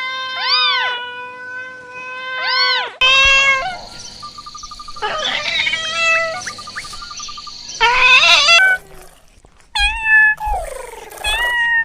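Kittens meowing: a string of long, high meows, some holding steady and then bending up and down in pitch, with a busier stretch of overlapping sounds between about three and eight seconds in.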